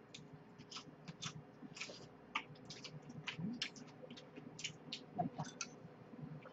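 Faint chewing of crisp raw vegetables: short, irregular wet crunching clicks, two or three a second.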